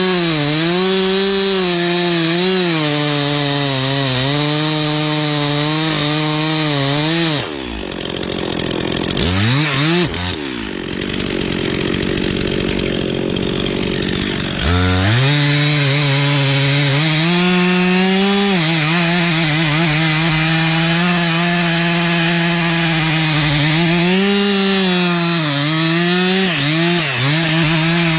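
Two-stroke chainsaw running at high revs, cutting into a large tree trunk; its pitch sags and recovers as the chain bites into the wood. About a quarter of the way in the engine drops off and runs quieter for several seconds, then comes back up to full revs.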